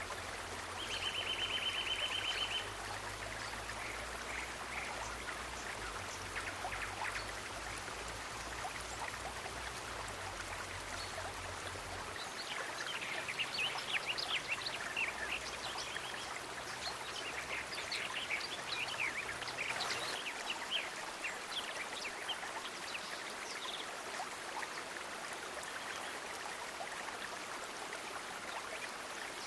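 Steady rush of a flowing stream, with birds chirping, busiest in the middle stretch, and a short rapid trill about a second in.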